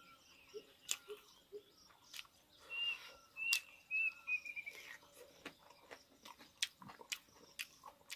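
A man chewing food eaten by hand, with many small sharp mouth clicks. About three seconds in, a bird gives a run of short high chirps that comes quicker toward its end.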